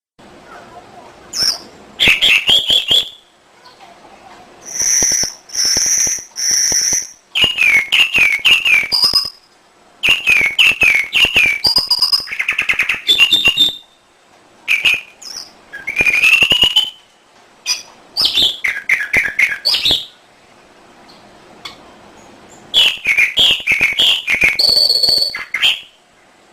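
Domestic canary singing: phrases of rapid repeated chirps and trills, with a few clear, high whistled notes, each phrase broken off by a short pause.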